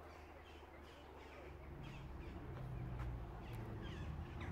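Wild birds calling: many short, high chirps scattered through, over a low rumble that grows louder about a second and a half in.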